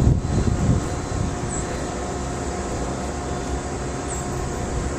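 Wind buffeting the microphone: a steady low rumble with a few louder gusts in the first second.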